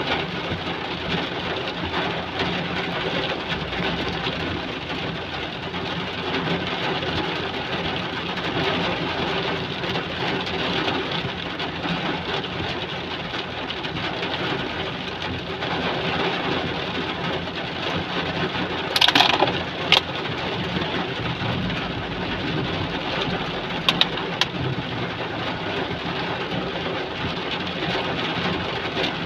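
Heavy rain falling steadily, a dense even hiss. About two-thirds of the way through there is a brief higher-pitched sound, followed by a few sharp clicks.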